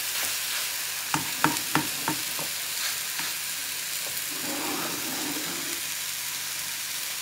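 Banana-and-egg pancake batter frying in a pan with a steady sizzle. About a second in there are four quick, sharp knocks of a utensil against the pan.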